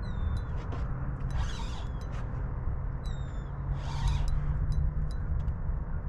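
A bird calling with short, falling whistles, several in a row, over a steady low rumble. Brief hissing bursts come about every two and a half seconds, with scattered light clicks.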